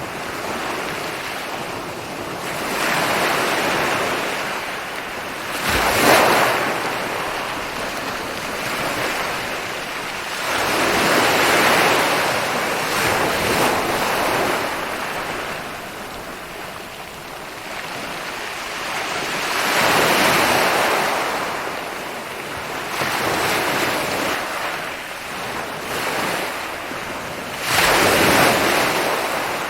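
Ocean waves rolling in and breaking on a beach, the surf swelling and fading with a new wave every few seconds. One sharper crash comes about six seconds in and another near the end.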